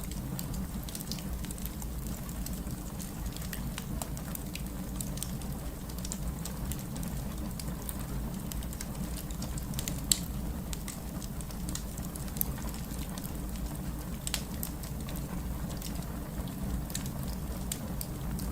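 Wood fire burning in a fireplace: a steady low rumble with scattered crackles and pops, and one sharper pop about ten seconds in.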